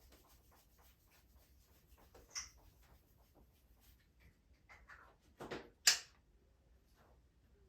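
Faint scratching and light clicks from African grey parrots moving and working their beaks. Two short, sharp sounds follow each other quickly about two-thirds of the way through.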